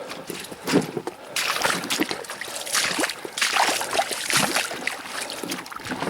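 Irregular water splashing and sloshing in a series of swishes, with sharp knocks among them.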